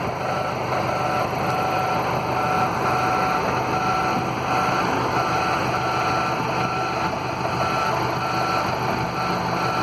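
Steady vehicle noise with an electronic beep repeating about twice a second throughout.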